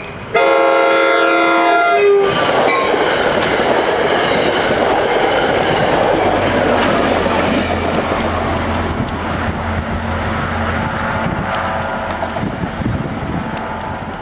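NJ Transit EMD Geep diesel locomotive blowing a long multi-tone horn blast for about the first two seconds, then passing close by with its passenger coaches: engine drone, wheels clattering over the rail joints and loud rolling rumble that slowly fades as the train moves off.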